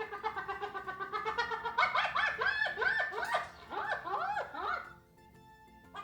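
An animal calling: a rapid, pulsing cry that breaks into a string of quick rising-and-falling yowls, then stops about five seconds in.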